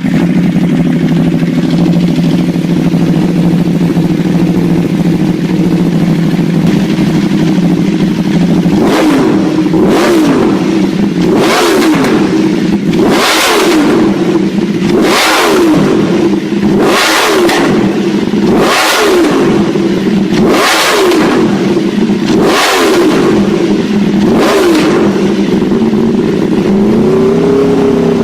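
Superbike engine idling steadily, then revved in about ten sharp throttle blips roughly every two seconds, each rising and falling straight back to idle. Near the end the revs climb more slowly.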